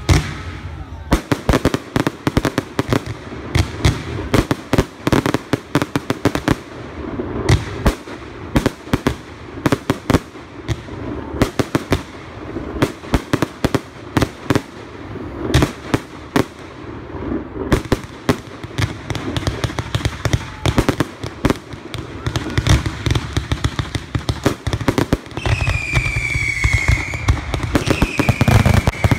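Fireworks display: a rapid, dense run of sharp bangs and crackles from bursting shells, with two whistling fireworks near the end, each a high whistle that falls slightly in pitch.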